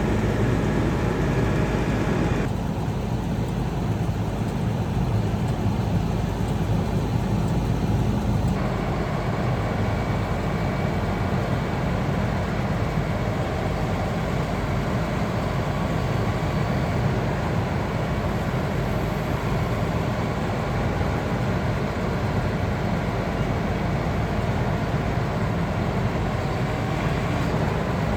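Heavy truck's Cummins L9 diesel engine running steadily with a low rumble. The sound changes abruptly twice, a few seconds in and again about eight seconds in.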